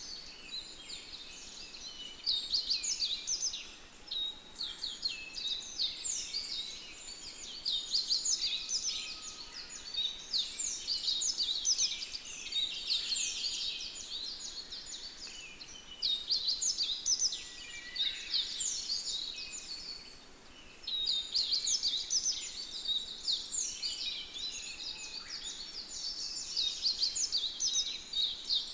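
Dense chorus of many small birds chirping and twittering at a high pitch, swelling and easing in waves every few seconds.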